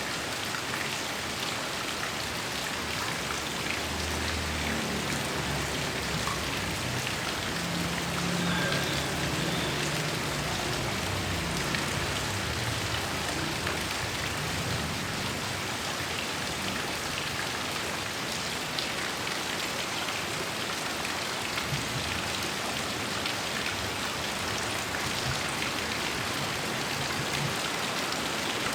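Heavy rain falling steadily in a thunderstorm. A low rumble of distant thunder swells from about four seconds in and fades out by about twelve seconds.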